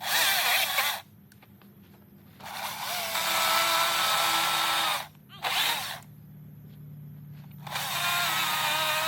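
A handheld power tool runs in four short bursts against a block of eastern red cedar during carving, its motor whine shifting in pitch under load. The longest burst lasts about two and a half seconds, and the tool falls quiet between bursts.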